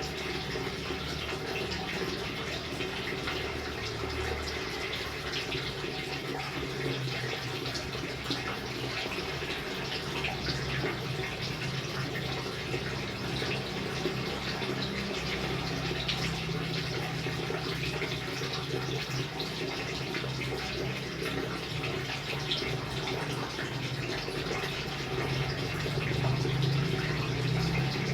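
Steady rain falling: a constant wash of water with many small drop hits throughout.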